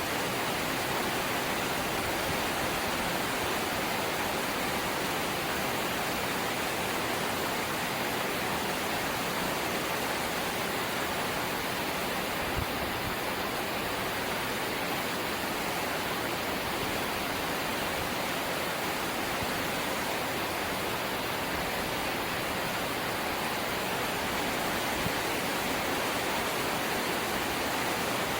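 Heavy rain falling steadily on a corrugated zinc roof, an even, unbroken hiss of water with one faint tick about halfway through.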